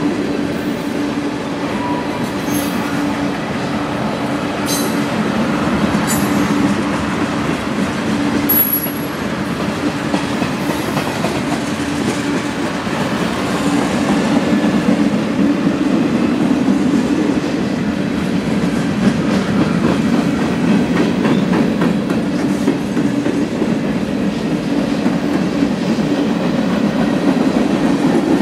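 Freight cars of a manifest train rolling past: a steady rumble and clatter of steel wheels on the rail. A few sharp clicks come early in the passage, and a short high wheel squeal about eight seconds in.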